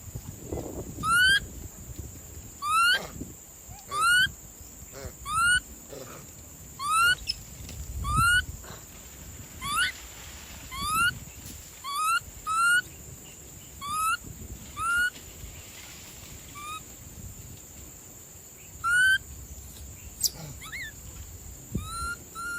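A bird giving a series of short calls, each sweeping upward in pitch, about one a second, then breaking off with only one or two more calls after a pause.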